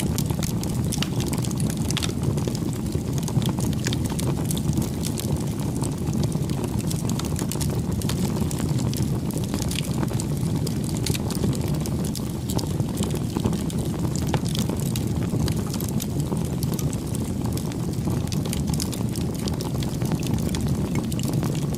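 Bonfire burning: a steady low rush of flame with many small, sharp crackles and pops from the wood.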